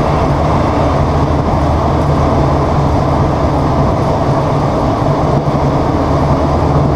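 Irish Rail 29000 class diesel multiple unit heard from inside the carriage while running at speed: a steady, loud low drone of the diesel and the wheels on the rails.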